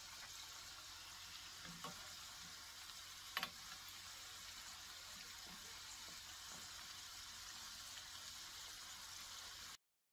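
Squares of yogurt dough deep-frying in hot oil in a skillet, a steady sizzle. A sharp click about three and a half seconds in, with a smaller one a little before it. The sizzle cuts off suddenly near the end.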